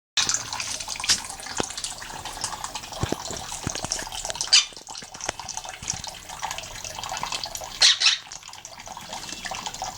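Water running steadily from a tap while a quaker parrot bathes in it, with louder splashes about a second in, at about four and a half seconds, and a double splash near eight seconds.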